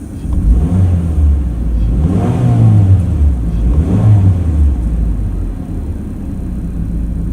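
Car engine accelerating, heard from inside the car through the dashcam: the engine note climbs twice, about two seconds in and again near four seconds, then settles back to a lower steady drone.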